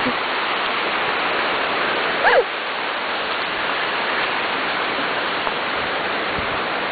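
Flash-flood water rushing steadily over a culvert, an even, unbroken rush. A short sliding, voice-like sound cuts in briefly about two seconds in.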